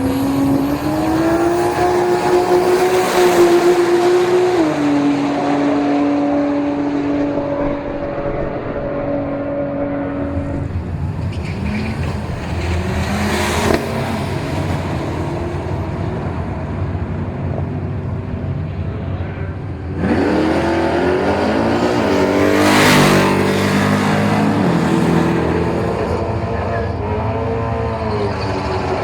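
Drag-racing cars' engines running hard. A held high engine note steps down in pitch about five seconds in. Later a car accelerates past about halfway through. Near the end another engine climbs steeply in pitch as a car accelerates down the strip, loudest a few seconds after it starts before fading away.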